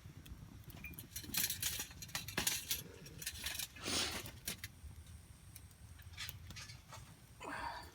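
A newly lit campfire of damp branches crackling and snapping, with scattered sharp clicks and a few brief hissing bursts.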